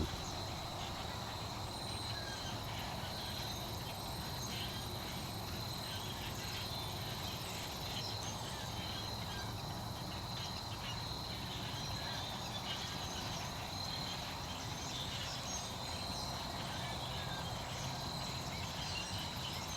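Steady outdoor insect chorus, a constant high-pitched trill over a background hiss, with faint scattered chirps.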